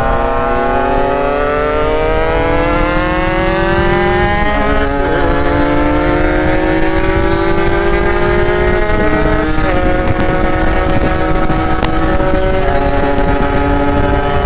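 Two-stroke motorcycle engine under way, pulling through the gears: its pitch climbs slowly, then drops abruptly at upshifts, three times. A steady rushing noise runs underneath.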